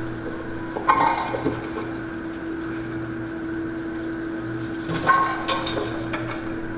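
Props being handled on stage, with two bursts of knocking and clattering, about a second in and again around five seconds, over a steady hum.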